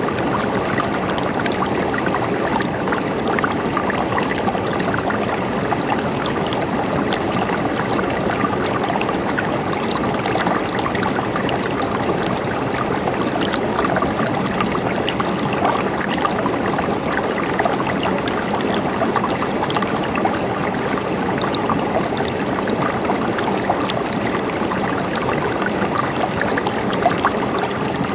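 Stream of water flowing steadily over stones, a continuous babble dotted with many small splashes.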